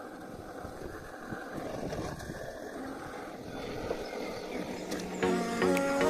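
A steady low rumbling noise, then background music comes in about five seconds in.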